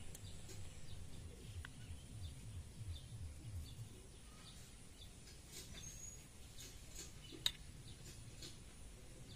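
Faint outdoor background: a low rumble in the first few seconds, with scattered short bird chirps over it and a single sharp click about seven and a half seconds in.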